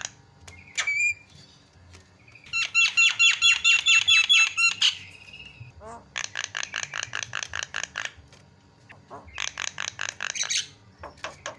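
Javan myna (jalak kebo) calling in several bursts of rapid, harsh repeated notes, about eight to ten a second, the loudest burst about three to five seconds in.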